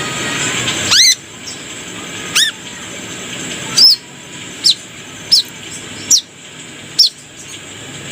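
Brown-throated sunbird (kolibri kelapa) giving seven sharp, separate call notes, each a quick sweep in pitch, spaced about a second apart over a steady hiss.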